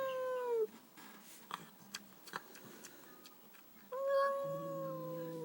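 Domestic cat making its weird, long drawn-out call, a reaction to seeing an unfamiliar new cat. One call tails off with a slight fall in pitch about half a second in, and a second steady call begins about four seconds in and lasts about a second and a half.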